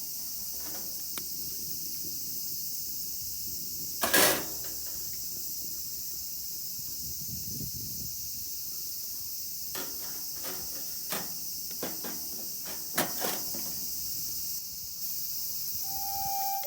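Wood fire crackling, with sharp pops: one loud pop about four seconds in and a run of cracks later on, over a steady high chorus of crickets.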